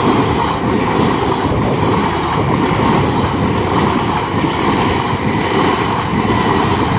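LNER Azuma passenger train passing over the level crossing, a loud steady rumble of wheels on rail with a faint high whine. It is running fairly slowly, which is typical of approaching a yellow signal.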